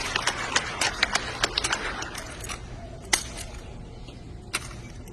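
Sharp clicks and slaps of a drill rifle being spun, caught and slapped in the hands during an exhibition drill routine. Dense over the first two seconds with crowd noise behind that fades away, then single clicks about a second and a half apart.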